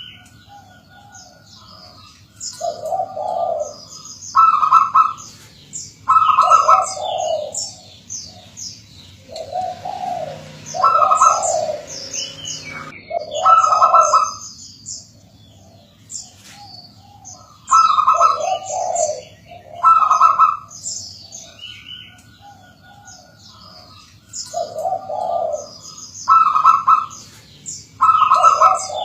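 Zebra dove (perkutut) singing its repeated cooing phrase, a low note then higher ones, every couple of seconds. High, quick chirps from other small birds run through it.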